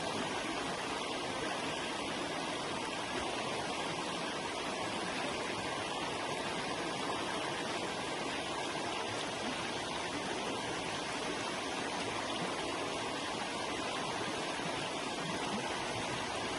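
Forest river flowing: a steady, even rush of water over stones.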